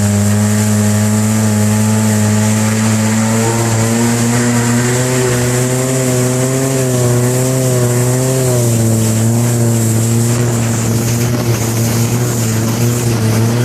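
Long-tail boat engine running hard at speed, a loud steady drone whose pitch rises slightly a few seconds in and then wavers gently, over a constant rushing hiss.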